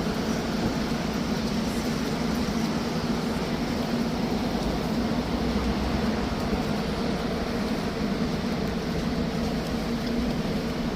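Steady rumbling hum of a running vehicle, with a low, unchanging drone.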